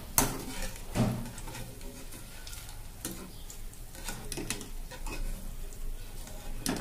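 Garlic cloves sizzling in hot oil in a kadai as a stainless-steel wire skimmer scoops them out, the skimmer knocking and clinking against the pan. There is a sharp knock just after the start, another about a second in, and lighter clicks after that. The garlic has fried about a minute and is done.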